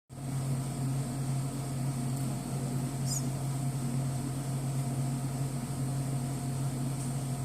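Steady low mechanical hum with a faint high whine, unchanging throughout, and one faint brief high sound about three seconds in.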